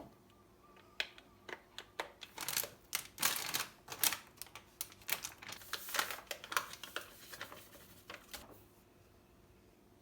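A quick, irregular run of clicks, taps and scrapes of kitchen work, densest a couple of seconds in and stopping shortly before the end.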